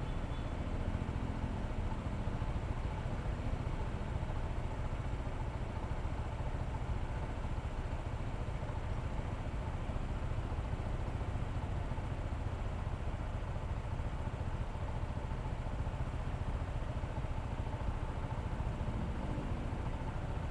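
Honda ADV160 scooter's single-cylinder engine running steadily while riding, under a constant low rumble of wind and road noise with no breaks.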